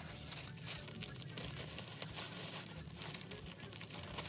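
Packaging being handled, crinkling and rustling in a dense, uneven crackle.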